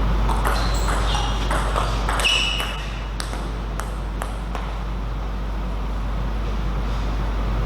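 Table tennis rally: the ball clicking off bats and table in quick succession, with short high squeaks of shoes on the floor among the hits, stopping about four and a half seconds in. A steady low hum runs underneath.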